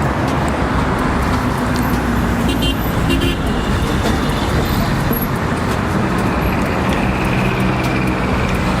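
Steady traffic noise of a busy city street, vehicles running past without a break, with a brief high-pitched toot about three seconds in.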